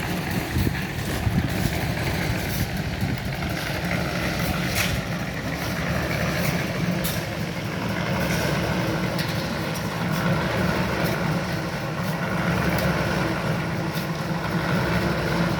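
An engine running steadily at a low drone, with scattered short clinks and knocks over it.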